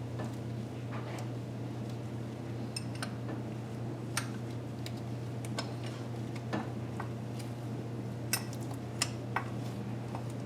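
Scattered, irregular metallic clicks and clinks of hand tools (wrench, socket, bolts) against engine metal, over a steady low hum.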